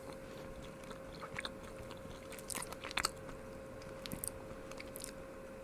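Close, quiet biting and chewing of a filled chocolate, with a few small crackles as the shell breaks, over a faint steady hum.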